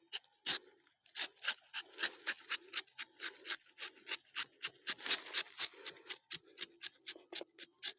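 Rubber-tapping knife shaving a thin strip of bark from a rubber tree, making quick rasping scrapes at about three to four a second, with a steady high-pitched whine behind them.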